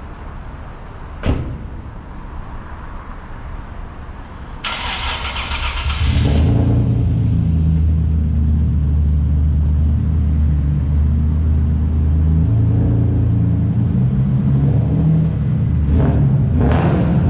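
Nissan 370Z's single-turbo VQ37VHR V6 being cranked about five seconds in, catching, then running at a steady idle. A sharp knock a little over a second in.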